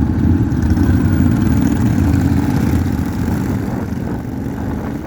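Motorcycle engine running at idle, a steady low rumble that eases slightly toward the end.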